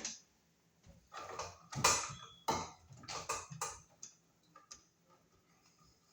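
Hand tools working copper electrical wire: a run of sharp clicks and snips of pliers or wire cutters, several close together in the first two-thirds, then a few faint ticks.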